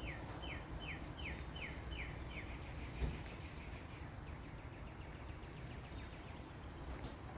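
A bird calling a rapid series of short, down-slurred chirps, about two and a half a second, that fade out about four seconds in. Under it is a steady low rumble of background noise, with a faint thump about three seconds in.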